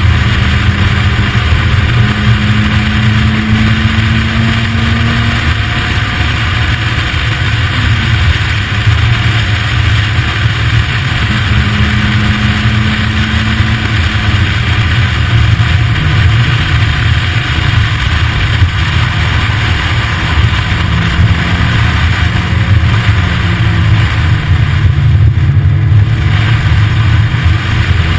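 Lotus roadster's engine running steadily under load as the car drives uphill, its pitch shifting a few times as the revs change. Heard from the open cockpit, with steady wind noise and rumble on the microphone.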